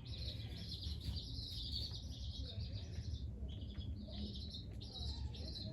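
Baby chicks peeping: many short, high cheeps one after another, over a low steady rumble.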